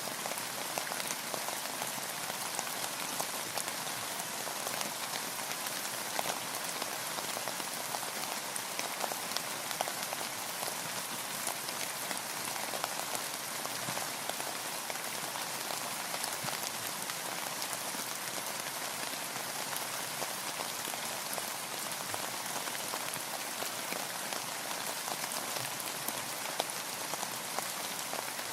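Steady rain falling on a boat, with a constant hiss and many small scattered drop clicks.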